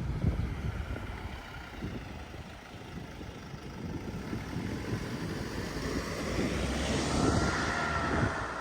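Wind buffeting the microphone, with a road vehicle approaching that grows louder near the end, its engine noise joined by a whining tone.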